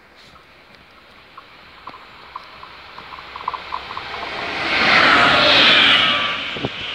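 Diesel locomotive approaching and passing at a level crossing: a rising rush of engine and wheel-on-rail noise that is loudest about five to six seconds in, then begins to ease. A few faint ticks sound in the first half, as the train draws near.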